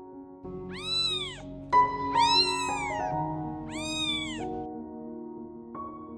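Newborn kitten mewing three times, high-pitched cries that rise and then fall in pitch, over soft piano music.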